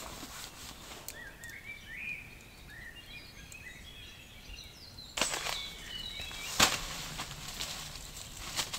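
Small birds chirping in short, quick rising-and-falling notes. About five seconds in comes a sudden crunch, and then a louder sharp knock.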